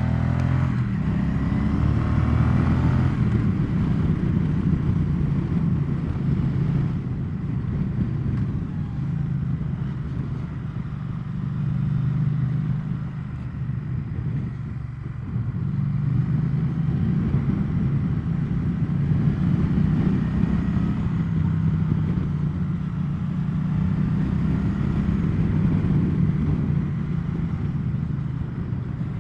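Triumph Bonneville T100's parallel-twin engine running steadily as the motorcycle rides along, its note rising and easing a little with the throttle.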